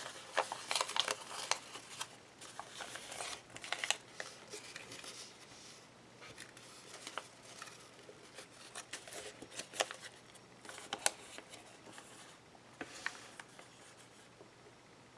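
Origami paper rustling and crinkling under the fingers as it is folded and creased by hand. The crackles come thick in the first few seconds, then as scattered short crinkles.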